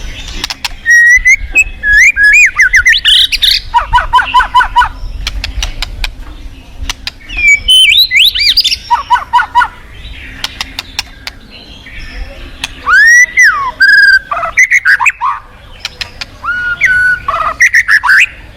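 White-rumped shama (murai batu) singing in three loud bouts of varied whistled phrases, with rising and falling glides, quick rattling trills and sharp clicks. A steady low rush of flowing river water runs beneath.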